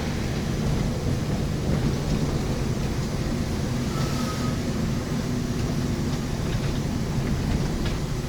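Steady low rumble of an intercity bus driving in the rain, heard from inside the cabin: the engine's even drone under the hiss of tyres on the wet road and rain.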